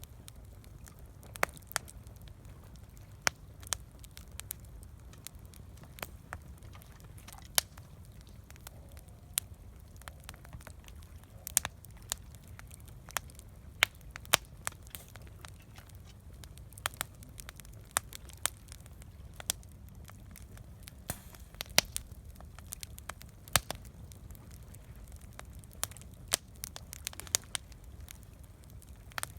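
Wood campfire crackling, with irregular sharp pops of varying loudness over a low steady rumble.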